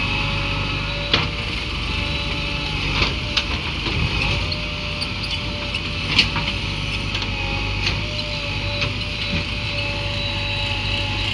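Diesel engine of a JCB 3DX backhoe loader running steadily with a steady whine over it, and a few sharp knocks scattered through.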